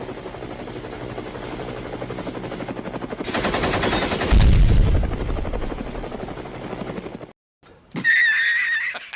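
A fast, rattling run of rapid shots that builds to a loud booming burst about four seconds in, then stops abruptly; a short high-pitched warbling sound follows near the end.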